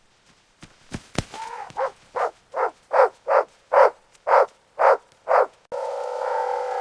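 A dog barking in a quick, even run of about ten short barks. A steady pitched sound with several tones starts near the end.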